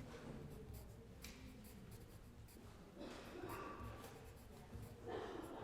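Writing on paper: short, scratchy strokes of a pen or pencil, coming and going irregularly, faint, over a low background hum.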